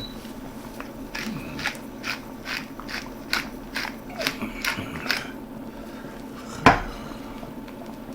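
A kitchen utensil knocking and clinking against a cooking pot, about twice a second for around four seconds, then one sharper knock a little later, over a steady low hum.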